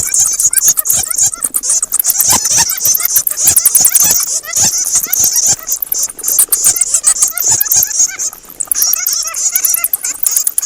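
Bats chattering in a dense, overlapping stream of rapid high-pitched chirps and squeaks, mixed with many sharp clicks.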